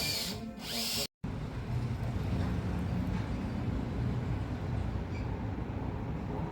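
Background music cuts off about a second in, followed by a steady low rumble, like a vehicle or engine running.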